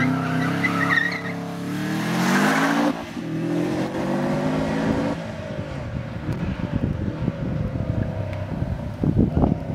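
Subaru Impreza STi's turbocharged flat-four accelerating hard out of a hairpin, revs rising with a gear change about three seconds in, over tyre squeal that dies away in the first second. The engine note then fades as the car pulls away, with a few loud low thumps near the end.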